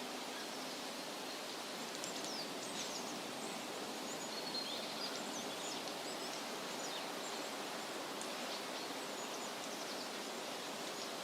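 Steady rustling of wind through leafy trees, with small birds chirping faintly now and then over it in the middle of the stretch.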